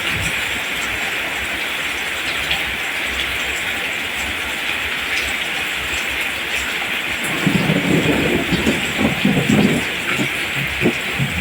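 Steady, even rain falling on rice plants. About seven seconds in, a low, uneven rumble of thunder rolls for a couple of seconds over the rain.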